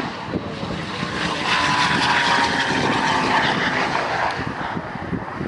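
Stage 3 tuned Audi RS6's twin-turbo V10 running flat out as the car passes at speed, swelling about a second and a half in, with a high whine that falls slowly in pitch as it goes by.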